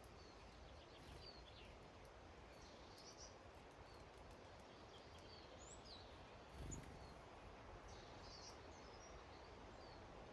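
Faint, scattered short chirps from small garden songbirds at a feeder over a steady outdoor hiss, with one soft low thump about two-thirds of the way through.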